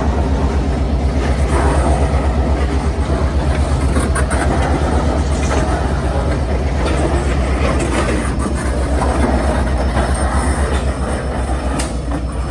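EMD GP38-3 diesel-electric switching locomotive, with its two-stroke V16 diesel, running close by as it moves rail cars: a loud low engine rumble with a fast, even pulse, and a few sharp clicks as the wheels cross rail joints.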